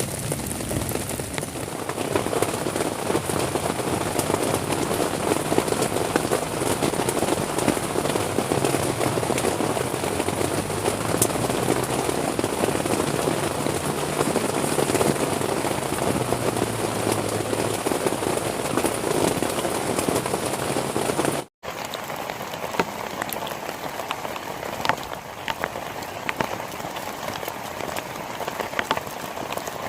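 Heavy rain pouring steadily onto a surface, a dense even hiss. About two-thirds of the way through it cuts out for an instant and comes back thinner and a little quieter.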